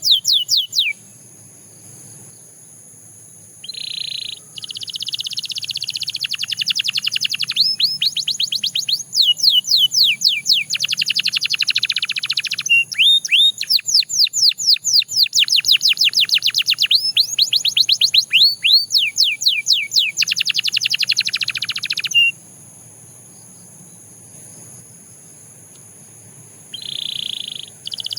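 Canary singing: long phrases of fast trills, each made of quickly repeated downward-sweeping notes, with short buzzy notes before each phrase resumes. The song pauses for a few seconds just after the start and again for several seconds near the end.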